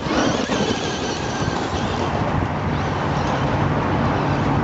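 Fast radio-controlled car running on pavement: a thin, high motor whine in the first second or so over a steady rolling rumble.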